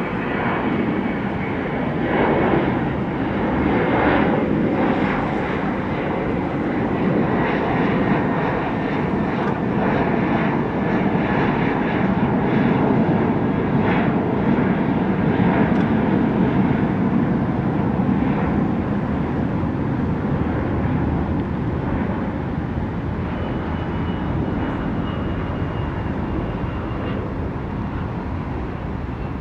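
Departing jet airliner's engines running loud at takeoff power, with a thin whine that falls slowly in pitch as the plane passes and climbs away; the noise slowly fades through the last third.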